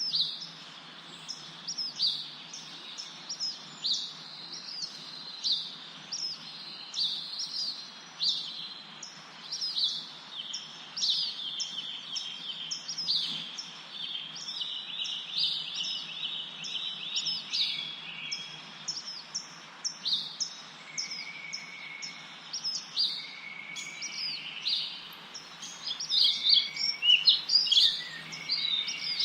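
Several birds chirping and singing together: a steady stream of short, quick, high-pitched calls over a faint background hiss. Lower held whistled notes come in during the second half, and a louder flurry of calls follows near the end.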